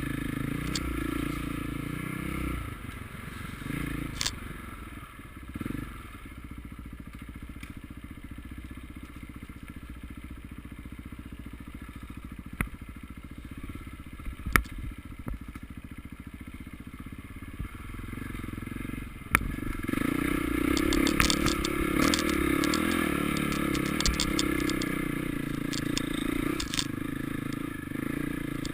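Motocross motorcycle engines running steadily, quieter for most of the stretch and then louder about two-thirds of the way through. Scattered sharp clicks and knocks come through, most of them in the louder last part.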